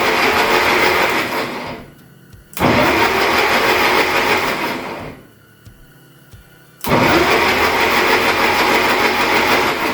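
A rebuilt Autolite starter cranks the engine in three bursts of about three seconds each, with short pauses between them; one burst is already running as the clip starts. Each burst dies away when the starter is released. This is the test run after the Bendix drive was cleaned and lubricated so that it engages and kicks out.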